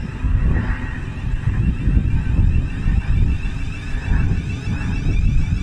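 Train rumbling past, a heavy low rumble that rises and falls, with wind buffeting the microphone.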